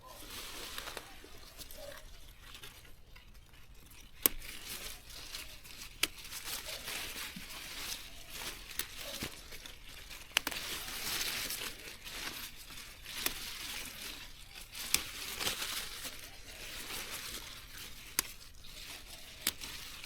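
Irregular rustling and crinkling, with a handful of sharp clicks or snaps scattered through it.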